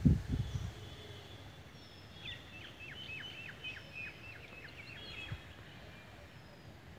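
A songbird singing a quick run of about ten short notes, each sliding downward, from about two seconds in, over a faint steady outdoor hiss. A few low rumbling bumps come at the very start.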